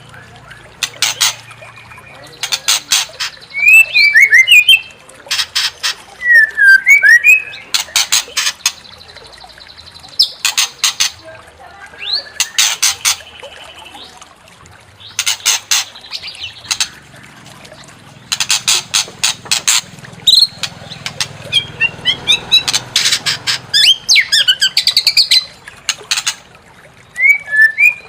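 White-rumped shama (murai batu) singing in repeated loud phrases: bursts of rapid harsh chattering notes alternate with short whistled notes that slide up and down in pitch, separated by brief pauses.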